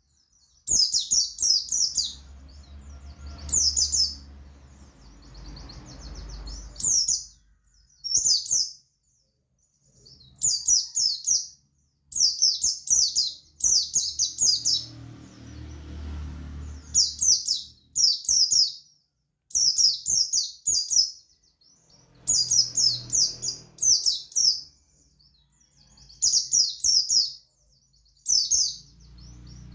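Buxtoni white-eye (pleci buxtoni) singing its rambling 'ngalas' song: rapid high chirpy phrases in clusters about a second long, repeated with short pauses throughout. A faint low rumble sits under some of the phrases.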